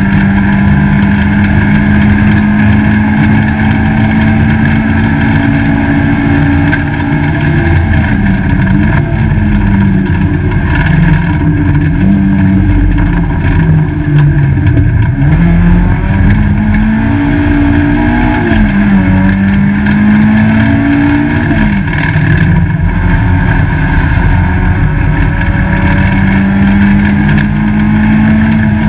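Peugeot 205 GTi race car's four-cylinder engine, heard loud from inside the stripped cabin, held at steady high revs, then dropping and climbing several times in the middle as the revs change, before settling back to a steady note near the end.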